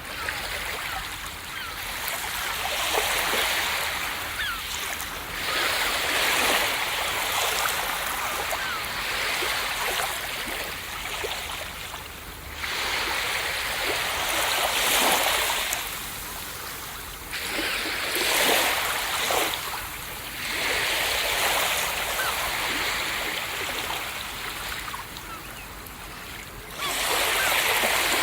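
Ocean surf: waves breaking and washing up a beach in a steady hiss that swells and eases every few seconds.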